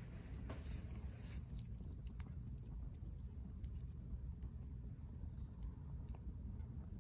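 Wood fire burning in a fire pit, crackling with scattered irregular pops over a steady low rumble.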